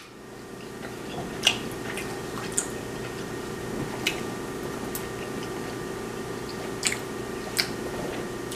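A person chewing a mouthful of ribeye steak, with about seven short, sharp clicks scattered through, over a steady low hum.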